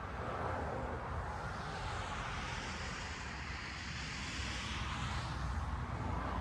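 A vehicle passing by: a smooth rush of noise that swells over a couple of seconds, peaks in the middle and fades away again, over a steady low rumble.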